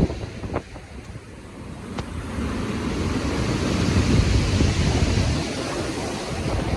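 Rough sea: ocean waves surging and breaking with wind, a wave swelling up a couple of seconds in, cresting in the middle and easing off near the end.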